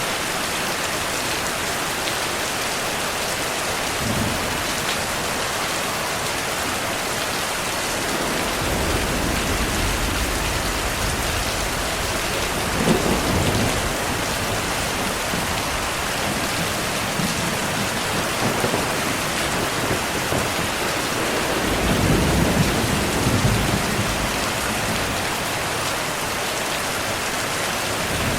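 Heavy steady rainfall with thunder rumbling low several times: a long roll from about a third of the way in that peaks near the middle, and another near three quarters of the way through.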